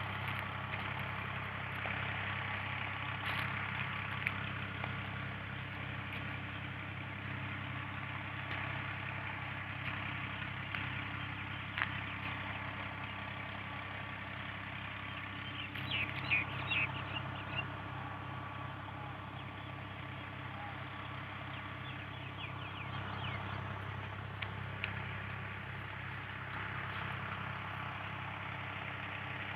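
Tractor engine running steadily at low speed, driving a tubewell water pump.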